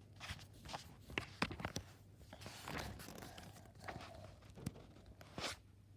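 Pages of a picture book being handled and turned: paper rustling and swishing with scattered taps and clicks.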